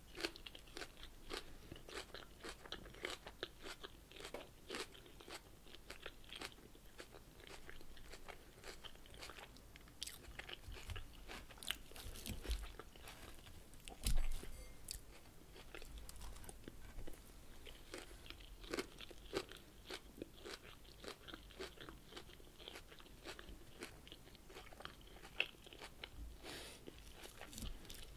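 Close-miked crunchy chewing of a lettuce salad: many crisp, irregular crunches and mouth sounds, with a fork in a glass bowl now and then and one louder knock about halfway through.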